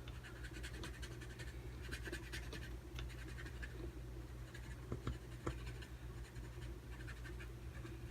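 Brush-tip marker rubbed back and forth over a rubber stamp, inking it section by section: a soft, continuous scratchy sound, with a couple of light taps about five seconds in.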